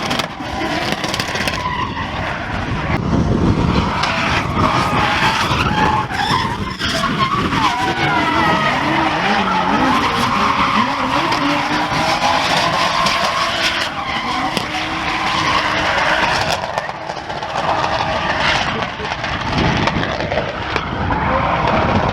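Drift cars sliding, engines revving up and down with tyres squealing and scrubbing continuously.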